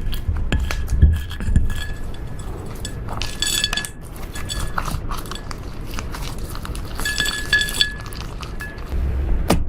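Slime being worked by hand, with many small sticky clicks, crackles and pops.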